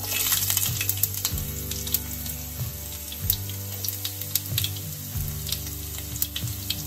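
Julienned ginger and sliced garlic sizzling as they drop into hot olive oil with popped mustard seeds, a hiss full of small crackles that is loudest just as they go in and then settles.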